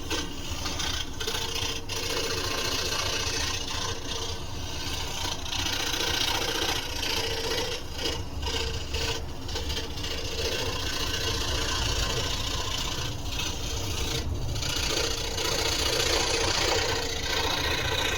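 Electric scroll saw running and cutting through wood: a steady motor hum with the noise of the reciprocating blade working through the wood on top.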